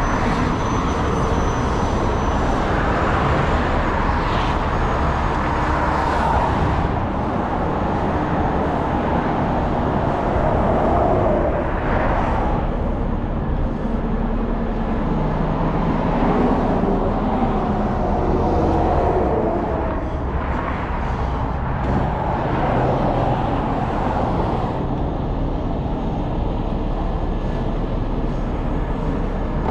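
Heavy-duty tow truck's diesel engine running steadily under load.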